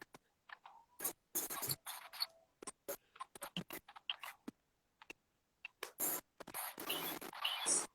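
Irregular scratching and rustling noises, a string of short scrapes and brushes that grows denser and louder near the end.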